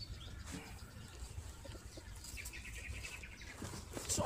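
A small bird chirping a quick high trill of about ten notes in a second, midway through, over faint background rustling. A short louder cry comes near the end.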